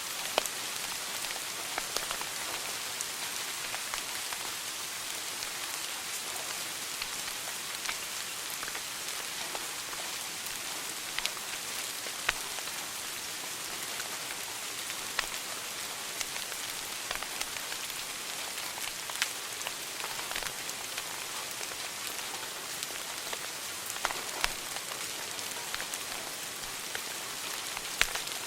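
Wood fire burning in a fireplace: a steady hiss with scattered sharp crackles and pops every second or so.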